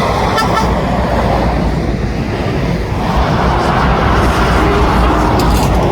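Motorway traffic passing beneath a bridge: a steady wash of tyre and engine noise that swells as vehicles go by, with wind rumbling on the microphone.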